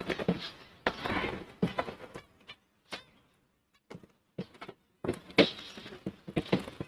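Scattered light knocks, clicks and brief rustles from wire bird cages being handled while finches are caught and put into a cage.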